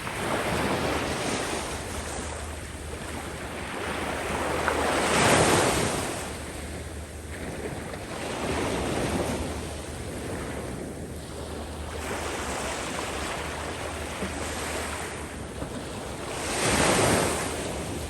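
Waves breaking and washing up a sandy beach, the hiss of water over the sand swelling and ebbing, with the biggest surges about five seconds in and near the end.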